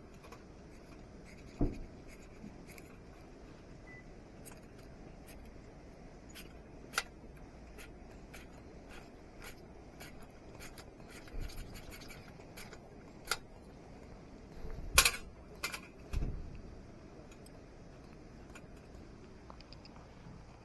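Scattered scrapes, clicks and light knocks of small objects being handled, with a louder sharp scrape and clatter about fifteen seconds in.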